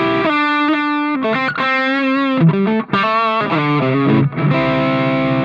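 Electric guitar played through the overdrive section of a Valeton Dapper multi-effects pedal, a warm, mildly driven tone. Held single notes with bends and vibrato, with a short break about three seconds in.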